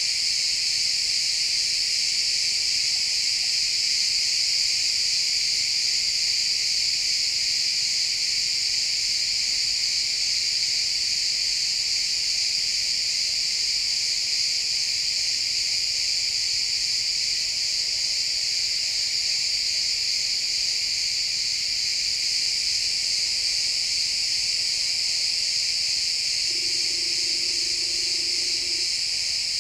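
Dense chorus of crickets chirping in a pine forest at dusk, a steady high-pitched wall of sound that never breaks. A short faint low tone sounds for about two seconds near the end.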